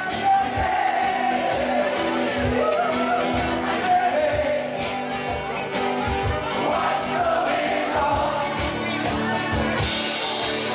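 Band music: a singing voice carrying a wavering melody over sustained chords and a steady drum beat.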